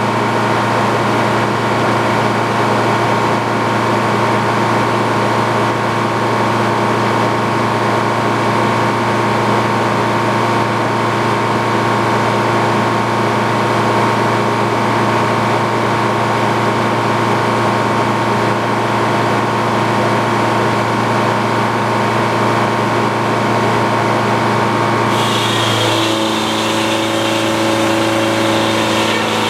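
Antique Frick sawmill running steadily under its power unit. About four seconds from the end the sound changes: a high hiss comes in and the pitch of the running steps slightly higher.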